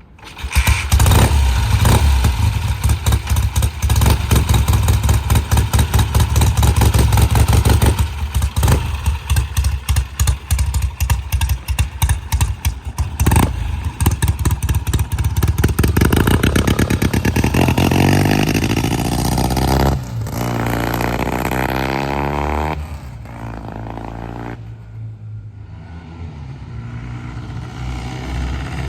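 1970 Triumph TR6C Trophy's 650 cc parallel-twin engine starting and running with a rapid exhaust beat and blips of throttle. About halfway through, the motorcycle pulls away and its pitch rises as it accelerates. The sound grows quieter for a few seconds, then louder again near the end.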